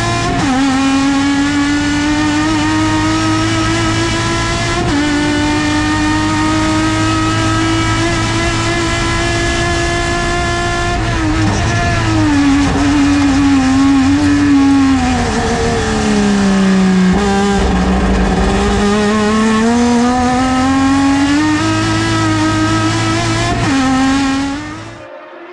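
Race car engine at high revs under full throttle, the pitch dropping suddenly at upshifts near the start and about five seconds in. Midway the revs fall in steps as the car slows, then climb steadily again with another shift, before the sound cuts off abruptly near the end.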